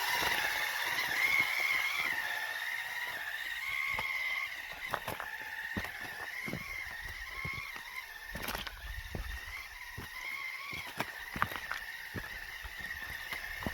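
Whine of an RC rock crawler's brushless motor, its pitch wavering a little as the throttle is worked, with scattered sharp clicks and knocks as the tyres slip and the chassis bumps over rocks.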